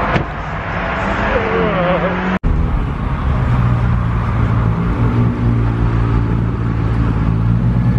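A Dodge Charger's engine running with a steady low exhaust note as the car rolls slowly past, starting after a brief cutoff about two and a half seconds in; before that, mixed background noise with some voices.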